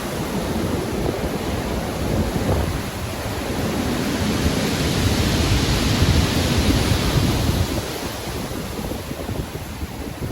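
Rough sea waves breaking and washing in with wind, a continuous rushing surge that builds to a peak about halfway through and then eases.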